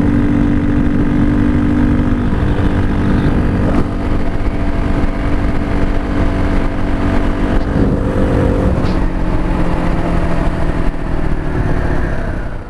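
Motorcycle engine running at a steady cruise, heard from on the bike with wind rushing over the microphone; the engine note steps lower about nine seconds in.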